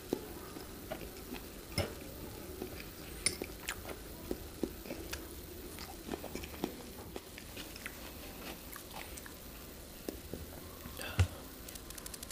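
Close-up mouth sounds of a person chewing food, with scattered small wet clicks and crackles. Near the end there is one louder knock, a fork against the dishes.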